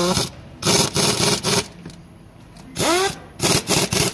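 Power tool run in several short bursts of about half a second, some spinning up with a quick rising pitch at the start.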